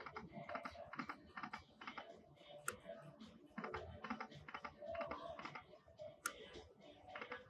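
Lightning Link slot machine being played: a fast, steady clatter of clicks as the reels spin and stop, with short electronic tones in between and a few sharper clicks.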